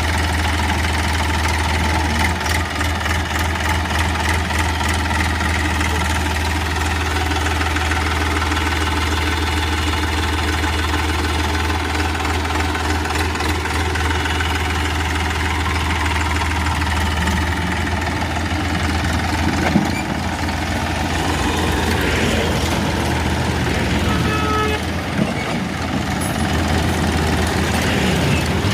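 Massey Ferguson tractor's diesel engine running steadily, with a single sharp knock about twenty seconds in.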